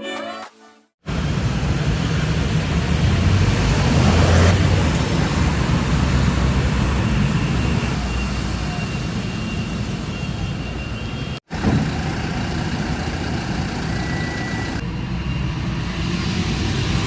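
Steady road-vehicle noise, a low rumble with a hiss over it. It drops out suddenly about eleven seconds in and comes straight back.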